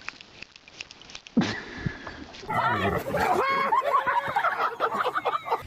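Animal cries: a thump about a second and a half in, then from about two and a half seconds in, several loud, overlapping squealing calls that bend up and down in pitch.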